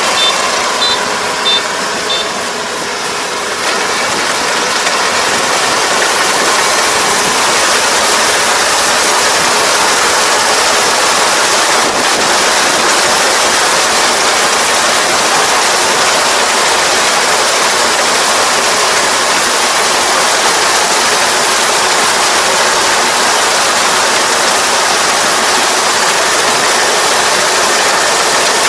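ER470 combine harvester running steadily under load, a dense continuous machine noise, with a few short high beeps in the first couple of seconds.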